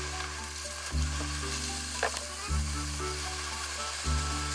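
Sliced eggplant and pork sizzling in an oiled frying pan as they are stir-fried with chopsticks and miso is worked in, with a sharp click about two seconds in. Background music with a slow, steady bass pulse plays under the sizzle.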